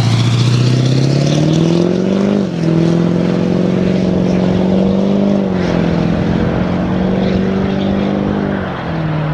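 Duramax 6.6-litre diesel V8 of a 2002 Chevrolet Silverado 2500 HD, running through an aftermarket performance exhaust and accelerating hard. Engine pitch climbs steadily and drops at gear changes about two and a half seconds in, about five and a half seconds in, and near the end.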